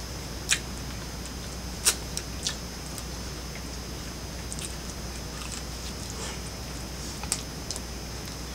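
A person chewing a mouthful of soft stuffed bread dough, with a few short, sharp mouth clicks over a steady faint hum.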